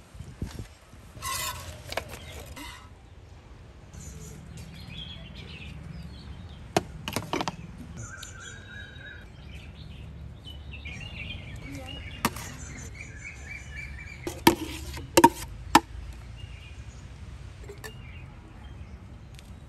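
Birds chirping now and then over a steady low background rumble, with several sharp clicks scattered through, the loudest a quick cluster near the end.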